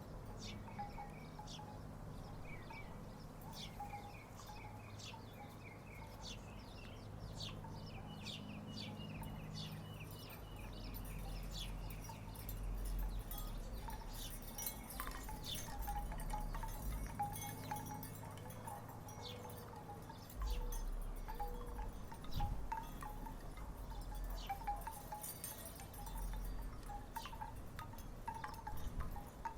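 Wooden tiki wind chimes knocking together in the breeze: irregular hollow wooden clacks, each with a short pitched tone.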